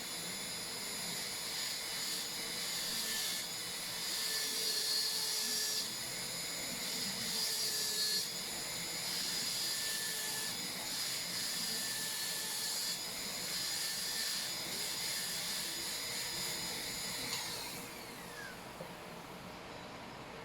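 High-speed dental air-turbine handpiece whining steadily while cutting a Class II cavity preparation in a lower molar, its pitch shifting slightly now and then. About seventeen seconds in it stops and winds down with a falling whine.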